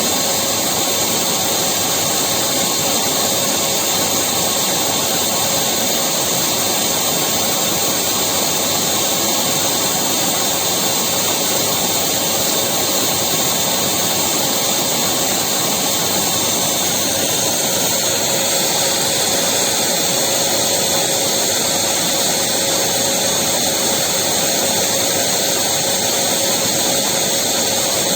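Electric vacuum cleaner running steadily at full power, a loud even whoosh of motor and airflow with a faint steady whine.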